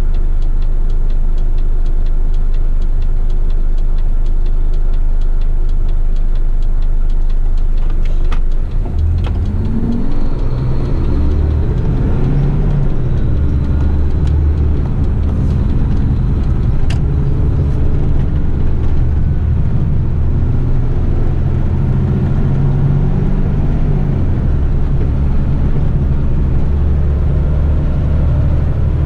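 Diesel engine of a heavy rubbish truck idling with an even clatter, then about eight seconds in the revs rise and it runs on at higher, heavier revs.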